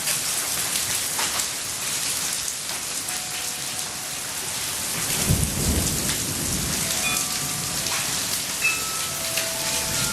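Hail and rain pelting down steadily, a dense patter of small ticks. A low rumble of thunder comes in about five seconds in and lasts a couple of seconds.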